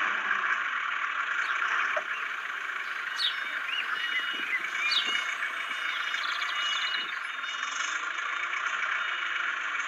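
A steady high-pitched hiss, like outdoor insect or frog chorus, with a few short chirps about three and five seconds in.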